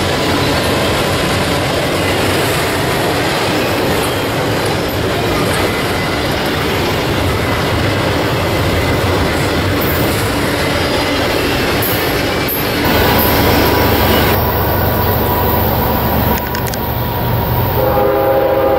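Double-stack intermodal freight cars rolling past: a steady rumble and rattle of steel wheels on rail. Near the end a locomotive horn sounds a held chord of several tones, from the CSX ES44AH leading the next freight.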